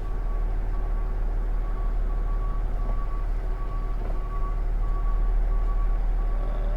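Box truck reversing, its backup alarm beeping evenly and steadily over the low running of the engine.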